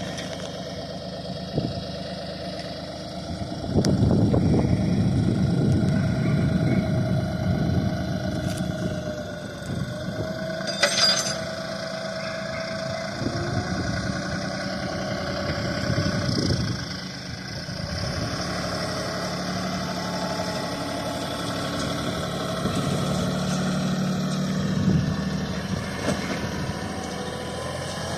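Tractor engine running steadily, growing louder about four seconds in as it revs up for a few seconds, then settling back and rising again near the end.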